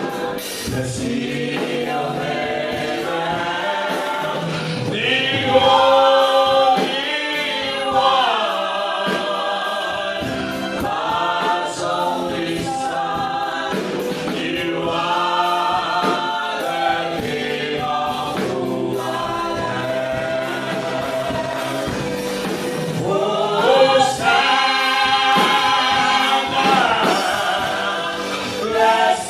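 Gospel praise and worship team singing together as a choir, with music.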